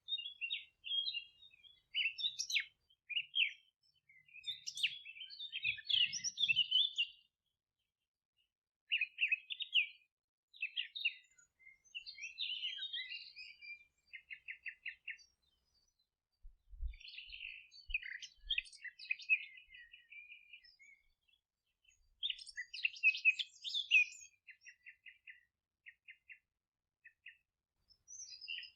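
Songbirds chirping and singing in bouts with short pauses, including several fast, even trills.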